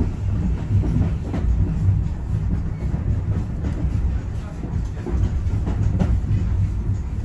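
Heritage railway train running along the track: a steady low rumble with irregular clicks of the wheels over the rails.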